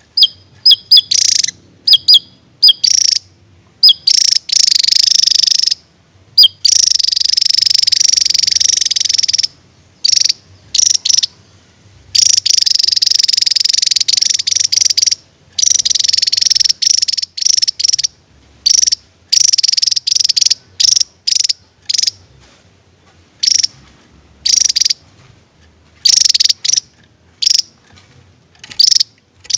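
Javan tesia singing its burst song: short, sharp high-pitched notes alternating with loud, fast runs of high notes lasting up to about three seconds, with brief pauses between.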